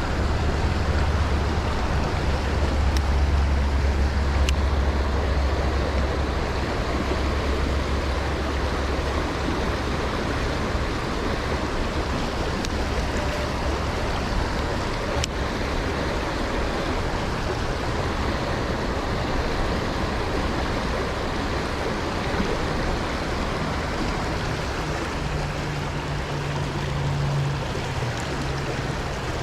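Steady rushing of flowing river current, with a low rumble during roughly the first ten seconds.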